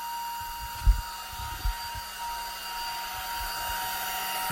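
Hair dryer running steadily with a whine, with a few low thumps about a second in and again at the end.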